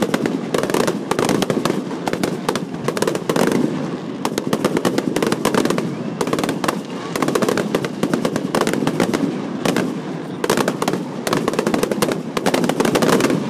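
Aerial fireworks bursting in a rapid, continuous barrage of bangs and crackling pops.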